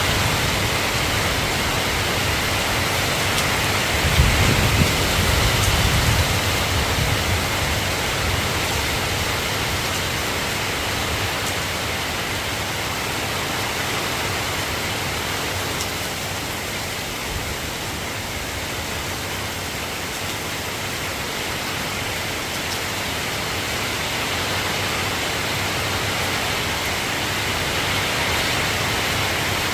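Steady rain falling, an even hiss. About four seconds in, a low rumble swells for a couple of seconds, then fades back into the rain.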